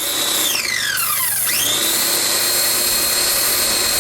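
A high-pitched motor whine over a hiss: its pitch sweeps down at first, then about a second and a half in it spins back up and holds steady.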